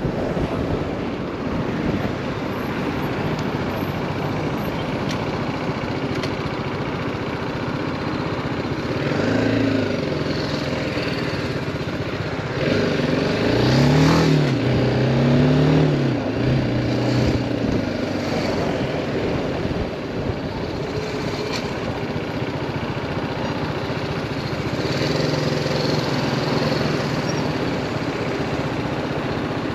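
BMW G310R's single-cylinder engine running while riding, with road and wind noise. About a third of the way in the engine note rises and falls through several short revs, loudest near the middle, then settles back to a steady run.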